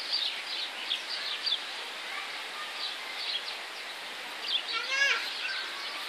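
Many small birds chirping, short high chirps coming again and again over an outdoor background. About five seconds in, a brief sliding call cuts in.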